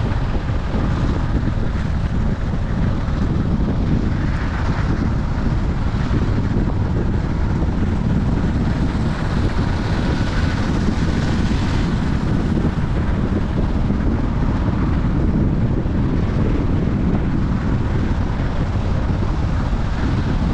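Steady low rumble of wind buffeting the microphone, mixed with the road noise of a moving vehicle.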